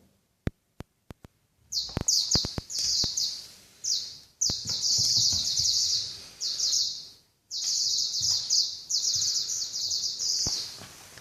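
Electronic toy mouse giving out high-pitched chirping in repeated bursts, some brief, some lasting a couple of seconds. Light knocks and clicks come in among them, starting with a few sharp clicks before the chirping begins.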